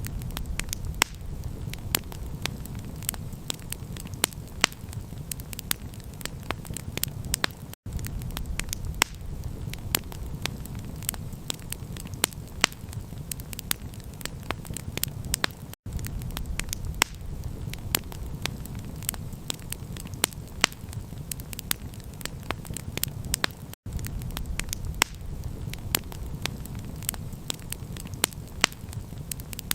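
Campfire crackling: many sharp pops and snaps over a steady low rumble. The sound cuts out briefly three times, about eight seconds apart.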